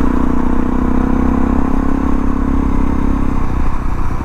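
Suzuki DR650's single-cylinder four-stroke engine running while the motorcycle is ridden, its pitch easing slightly lower. The steady note changes about three and a half seconds in, as the throttle or gear changes.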